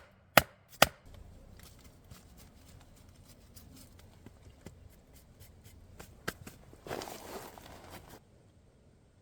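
Two sharp strikes on wood, the end of an even series of about two blows a second, then soft scattered handling and rustling sounds, with a louder rustle about seven seconds in.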